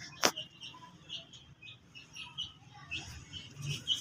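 Small birds chirping: short, high calls scattered throughout, with one sharp click about a quarter second in.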